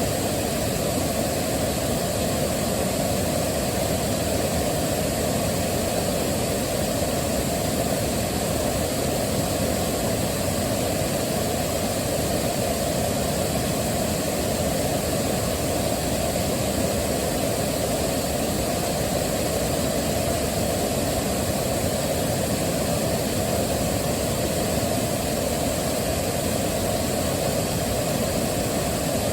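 Waterfall: a steady, unchanging rush of falling water, strongest in the low range.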